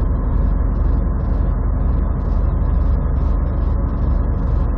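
Semi truck's diesel engine heard from inside the cab, running steadily and low as it hauls a near-maximum load of about 80,000 lb slowly up a steep mountain grade.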